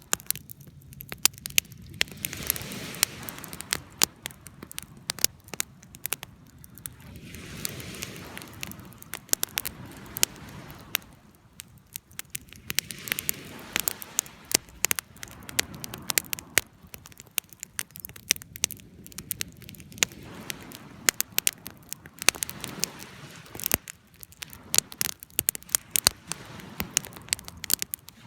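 Wood campfire burning, with irregular sharp crackles and pops over a rushing hiss that swells and fades every few seconds.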